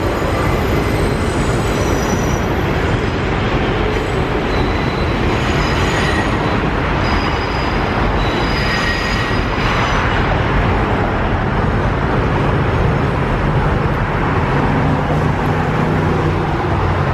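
Train running on rails: a steady loud rumble with high, thin wheel squeals that come and go during the first half.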